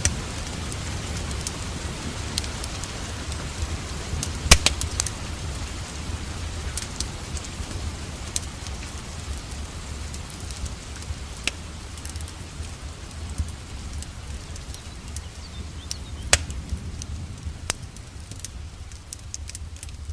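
Wood fire crackling, with scattered sharp pops, the loudest about four and a half seconds in, over a steady hiss of rain and a low rumble.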